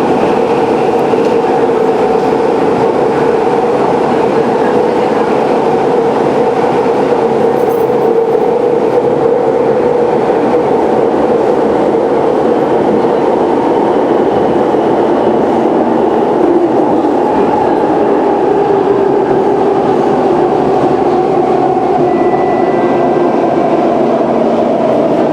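Siemens C651 metro train running along the track: a steady rumble of wheels on rail, with a humming whine that drifts slowly in pitch.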